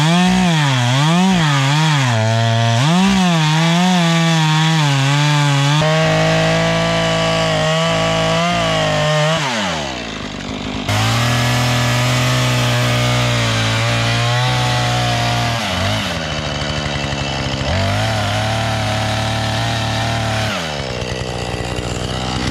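Two-stroke chainsaw blipped up and down in revs for the first few seconds, then held at full throttle cutting into wood. It drops back to idle about ten seconds in, then runs up and cuts again, with a shorter dip about two thirds of the way through.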